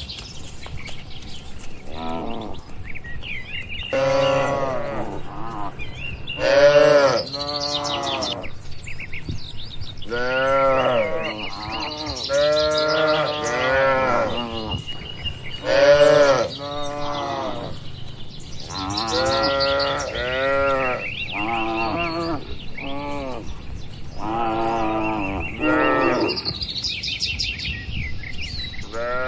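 Cattle mooing over and over, one call after another with some overlapping, each call rising and then falling in pitch.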